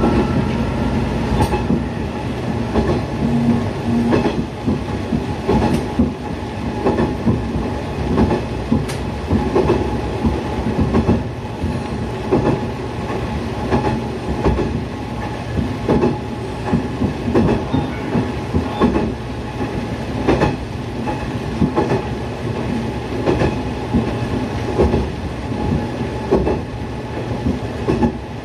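Diesel railcar of the Kuma River Railway running along the line, heard from the cab: a steady engine and running hum with regular clacks of the wheels over rail joints about every second and a half.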